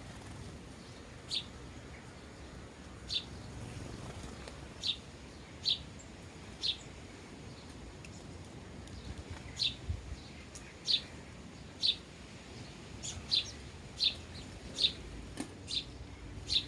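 Sparrows chirping: short single chirps repeated irregularly, roughly one a second and more often in the second half, over a low steady rumble.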